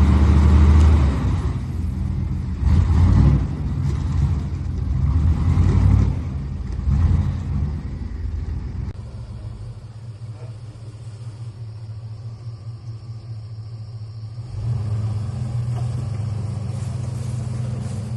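A 4x4's engine revving in several surges, then running lower and steadier about nine seconds in, and picking up again a few seconds before the end.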